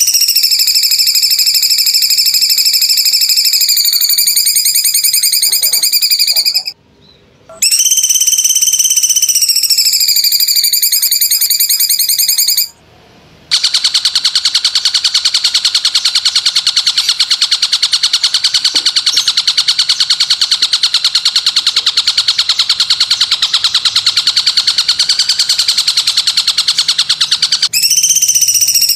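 Recorded animal calls from a songbird training track: a continuous, rapidly pulsing high buzzing trill with clear overtones. It breaks off twice briefly, then gives way to a hissier, rapidly pulsing buzz for about fourteen seconds, and the first trill returns near the end.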